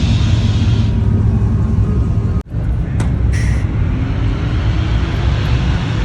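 Pickup truck running on the road, a steady low engine and road rumble, briefly cut off about two and a half seconds in.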